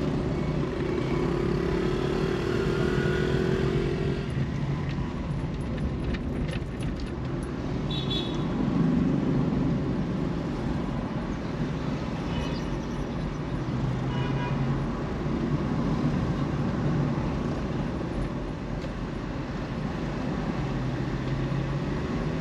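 City road traffic heard during a car drive: a steady engine and tyre rumble with other vehicles passing, a few short horn toots and a held tone in the first few seconds.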